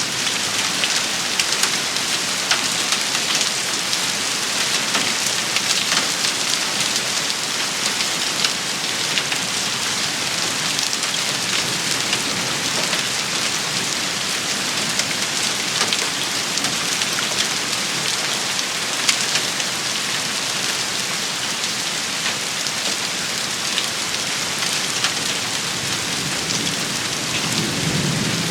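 Steady, dense rain shower: a constant hiss of rainfall with many sharp little taps of drops striking a surface. A low rumble swells near the end.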